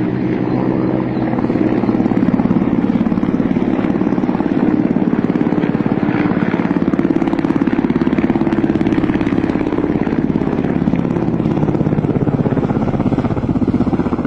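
Military helicopters flying low overhead, their rotor blades beating in a fast, steady chop over the turbine drone, getting louder about a second and a half in.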